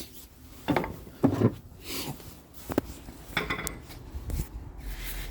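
Several light metallic clinks and knocks, irregularly spaced, as hand tools and metal suspension parts are handled during a control arm install.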